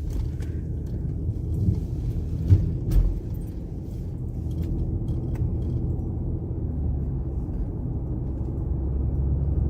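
Car interior noise while driving: a steady low rumble of engine and tyres, with a couple of short knocks about two and a half seconds in.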